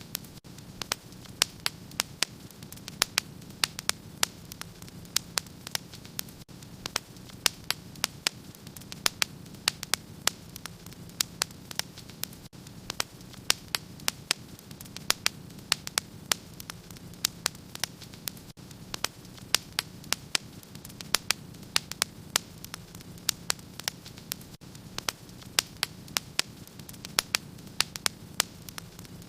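Wood fire in a fireplace crackling: many sharp, irregular pops and snaps, several a second, over a steady low rushing of the flames.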